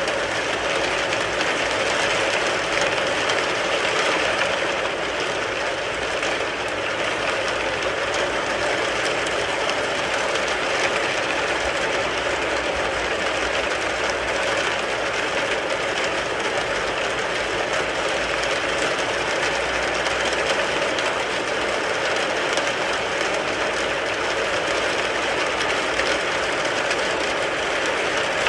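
Steady rain falling on a car: a dense, even patter of countless drop impacts on the roof and body, with no let-up.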